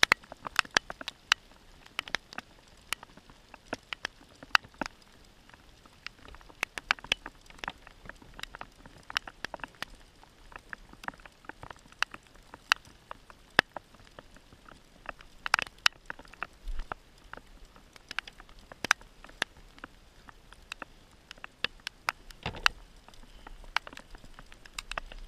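Light rain pattering: irregular sharp ticks of scattered drops, a few each second, hitting the hard plastic of a sit-on-top kayak.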